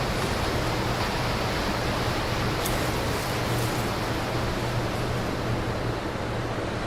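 Steady rushing noise with a low hum underneath and a brief faint click about three seconds in.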